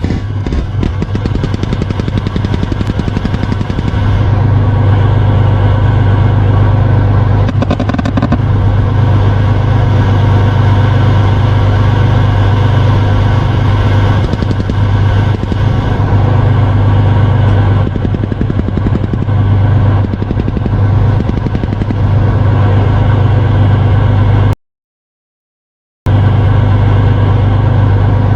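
Heavy vehicle engine running loudly and steadily, with a deep hum and a rapid even pulse; the sound cuts out for about a second and a half near the end.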